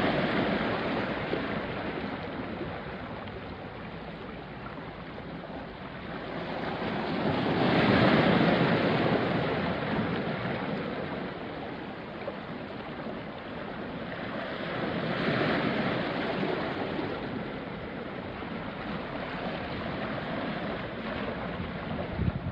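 Small sea waves washing onto a rocky shore, the wash swelling and falling back, with the loudest swells near the start, about 8 seconds in and about 15 seconds in.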